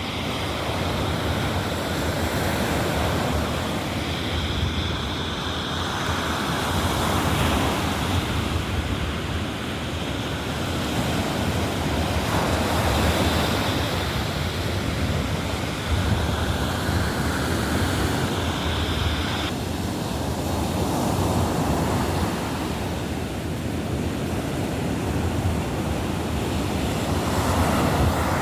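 Baltic Sea surf breaking and washing up the beach, swelling and easing every few seconds, with wind buffeting the microphone.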